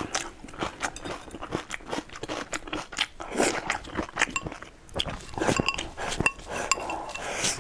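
Close-up mouth sounds of a person chewing and crunching food, with wet, crackly bites. Near the end come the clicks of chopsticks against the rice bowl as rice is pushed into the mouth.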